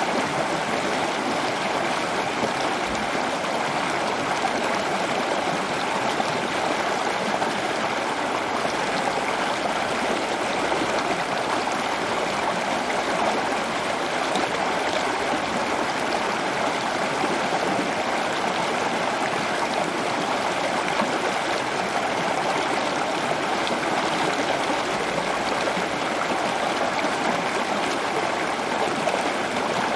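Running water flowing steadily, like a stream or small waterfall, with a few faint, brief high sounds over it.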